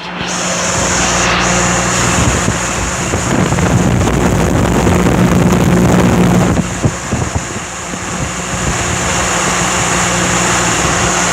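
Homemade shop fan driven by a converted inground pool pump motor running at full speed: a steady electric motor hum under a strong rush of air from the blades, with wind buffeting the microphone.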